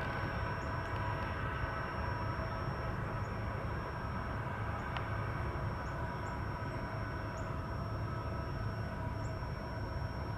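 CSX double-stack freight train moving away under diesel power: the locomotives give a steady low rumble with a steady whine above it.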